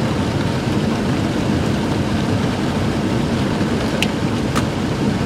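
Steady low rumble inside a Jeep's cabin from the idling engine and air-conditioning blower, with rain on the body. Two sharp clicks about four seconds in, half a second apart.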